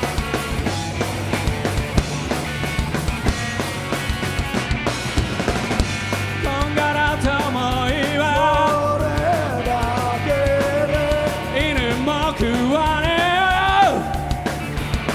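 Live rock band playing an instrumental break, with drums and guitars. About six seconds in a lead melody enters, bending and wavering, and climbs in a slide before breaking off near the end.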